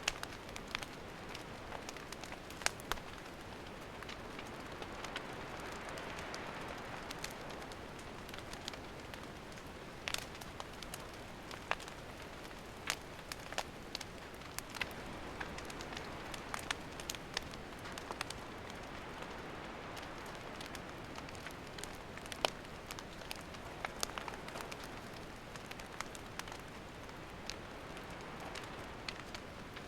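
Wood campfire crackling: a steady hiss of burning with frequent sharp, irregular pops and snaps from the firewood.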